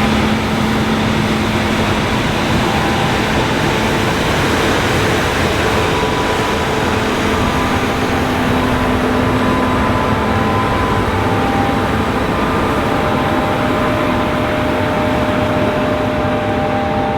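John Deere S780 combine harvester running steadily while harvesting: a continuous mechanical drone with a few faint hum tones that slowly drift in pitch.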